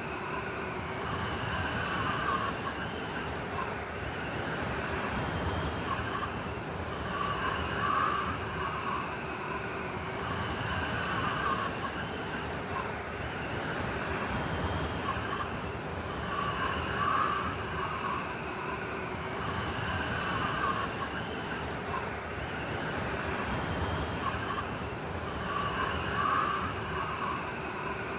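Blizzard wind: a steady rush of wind with a whistling howl that swells and fades every few seconds.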